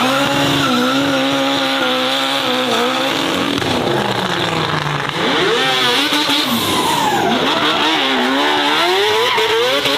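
Race car engine running hard at high revs. It holds a steady note for about three seconds, drops in pitch, then climbs and falls several times as the car accelerates and lifts off.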